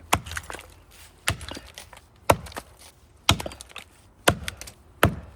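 Axe chopping into the trunk of a big maple tree: six hard strikes about a second apart, with fainter ticks between them.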